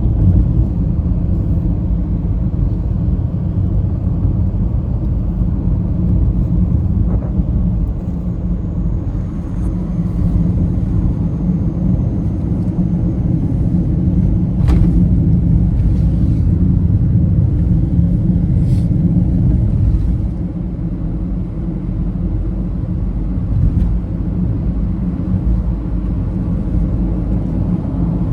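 Steady low rumble of a car driving along the road, with a few faint clicks.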